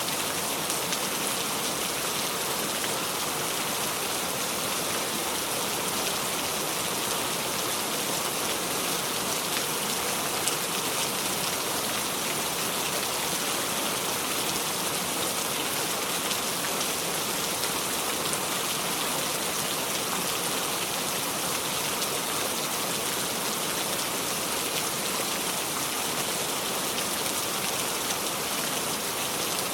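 Steady heavy rain falling, a constant even patter with no thunder.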